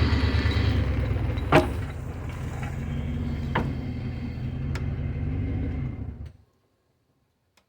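Truck engine running with a steady, pulsing low rumble, a sharp knock about a second and a half in and lighter clicks later. The sound cuts off abruptly about six seconds in.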